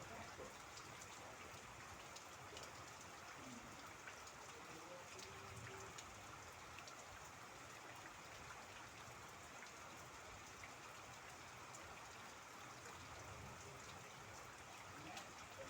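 Faint, steady rainfall with scattered individual drops ticking.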